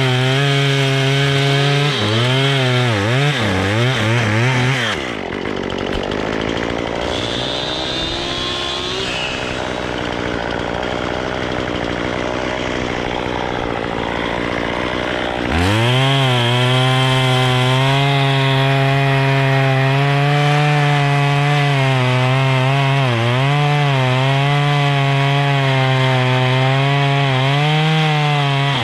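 Two-stroke chainsaw running at high speed while cutting wood, its engine pitch dipping and recovering as the chain bites. For about ten seconds in the middle the steady engine tone drops away, leaving a rougher, noisier sound, before the saw comes back in at full speed.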